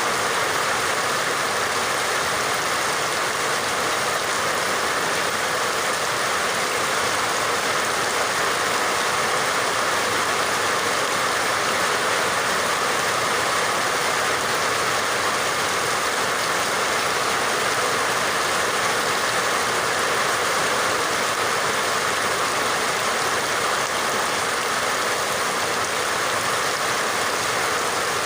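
Steady, unbroken rain noise, an even hiss with no distinct drops or thunder.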